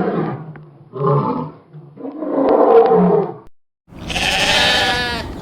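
A large animal roars in three calls, the last fading out about three and a half seconds in. After a short silent break, a long, wavering bleat starts about four seconds in.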